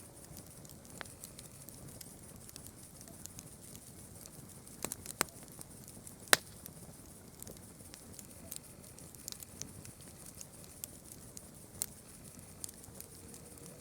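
Campfire crackling, with irregular sharp pops of burning wood; the loudest pop comes about six seconds in.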